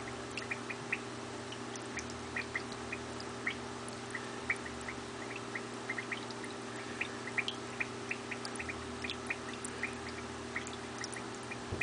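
Peach-faced lovebird giving quick, soft, scattered chirps, several a second, over a steady low hum.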